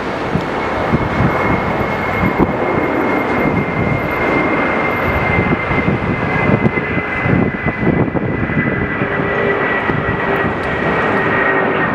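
Airbus A380's jet engines running as the airliner passes, a steady whine with a high tone that slides slowly down in pitch. Gusty wind buffets the microphone.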